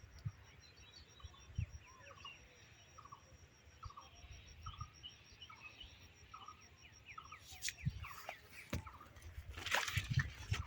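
Small birds calling in the background: many short, falling chirps repeated again and again, with low buffets of wind on the microphone. Near the end comes a brief burst of rustling.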